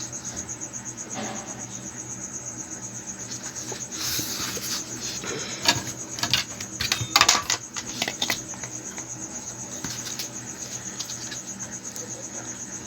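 Crickets chirping in a steady rapid trill. Scattered clicks and rustles of handling come about four to eight seconds in.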